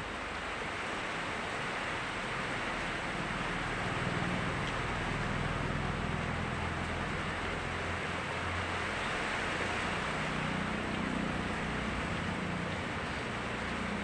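Steady hiss of heavy rain falling, with a low rumble that swells twice.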